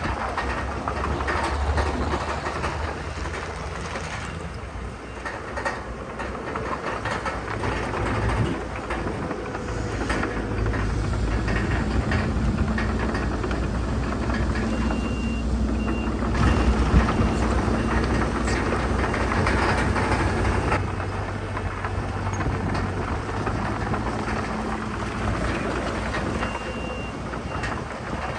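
Heavy diesel earthmoving machinery running steadily under load, with clanking and clatter, and a back-up alarm beeping briefly about halfway through and again near the end.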